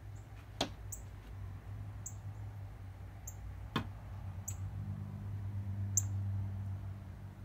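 A small bird giving a short, high chip over and over, about once every second or so, with two sharp taps in between. A steady low hum runs underneath.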